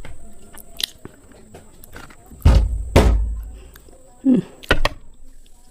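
A person biting and crunching slate pencils close to the microphone: sharp, crisp snaps, the loudest two about two and a half and three seconds in, and a quick pair near the end. A brief low hum from the mouth comes just before that pair.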